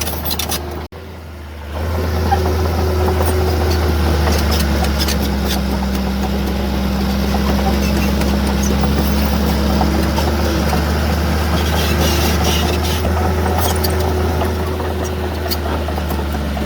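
Heavy diesel engine of earthmoving machinery running steadily under load with a deep hum. There are scattered faint clicks on top, and the sound drops out briefly about a second in.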